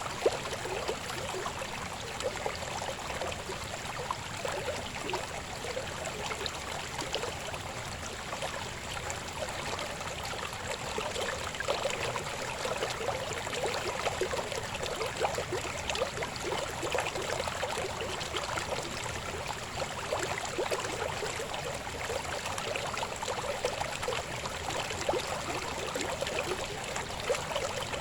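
Babbling river flowing steadily, an even rush of water full of small gurgles and splashes.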